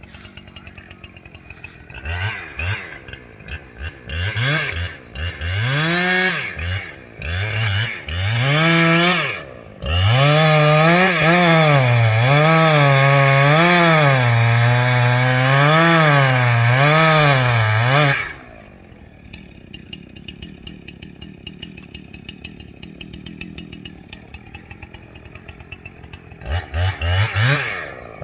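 Two-stroke chainsaw idling and blipped several times, then held at full throttle for about eight seconds with its pitch dipping and rising as it cuts into wood, then dropping back to idle, with a few more quick revs near the end.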